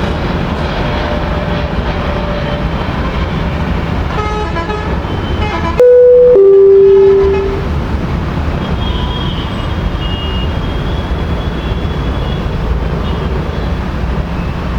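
A vehicle horn gives one loud two-note blast about six seconds in, a short higher note dropping to a longer lower one, over a steady low rumble.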